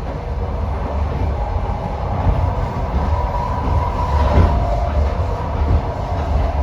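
Passenger train running along the track, heard from aboard: a steady low rumble of wheels and carriage, with a faint high whine in the middle.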